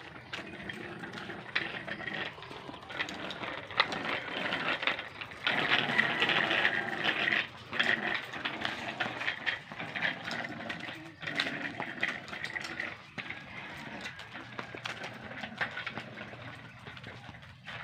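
Animal calls, busiest from about five to thirteen seconds in.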